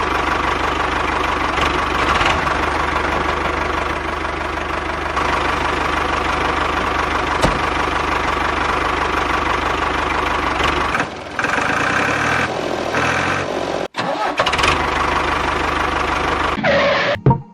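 Small electric motor of a homemade model machine running steadily, with a few brief cut-outs in the last few seconds.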